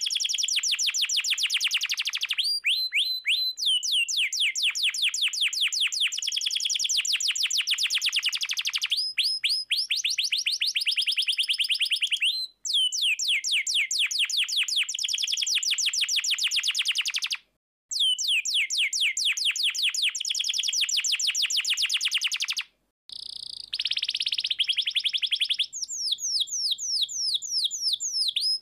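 Domestic canary singing a long song of rapid rolling trills, each run a fast, even string of repeated notes that changes pitch and pattern from phrase to phrase, broken by three short pauses.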